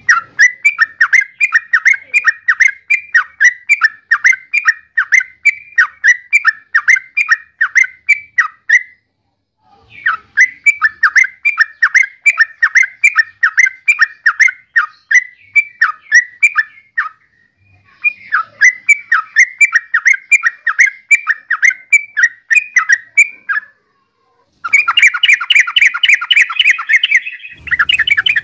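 Yellow-vented bulbul calling in quick runs of repeated notes, two to three a second, broken by short pauses into three bouts. Near the end the notes come in a faster, denser chatter.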